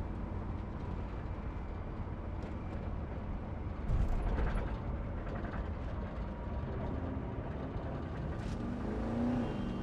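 A vehicle driving along, a steady rumble of engine and road noise heard from inside the cabin, with a louder thump about four seconds in.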